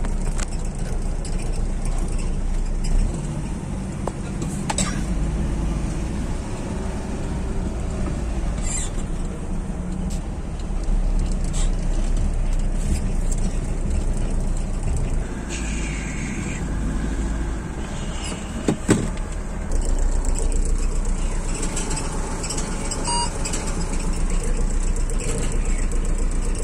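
Car engine idling at a crawl, heard from inside the cabin as a steady low rumble. A few sharp clicks and a brief hiss about two-thirds of the way through.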